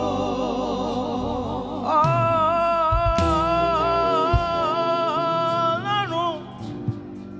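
Live gospel worship music with singing: a wavering melodic phrase, then one long held high note from about two seconds in until about six seconds, after which the music drops quieter.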